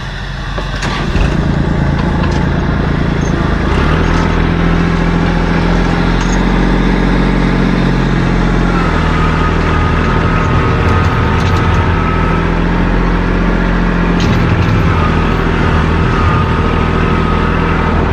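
Engine of a heavy vehicle running steadily under load, its pitch stepping up about one and four seconds in. A steady high whine joins it about halfway through.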